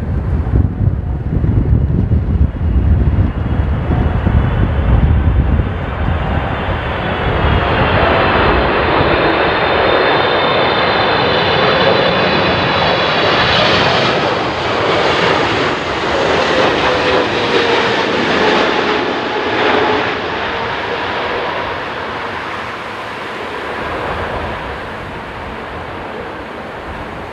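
Boeing 777-300ER jet airliner passing the microphone: its engines' whine and rumble build to a peak about halfway through, then fade. Strong wind buffets the microphone with a low rumble during the first few seconds.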